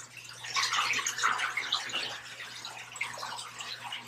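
Water rushing and splashing through a dairy milking system's pipework as its automatic wash cycle runs, over a steady low hum.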